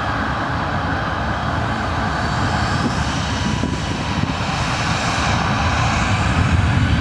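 Ryanair Boeing 737-800's CFM56 turbofan engines at takeoff power: a steady jet rush, with a low rumble that grows louder toward the end as the airliner departs.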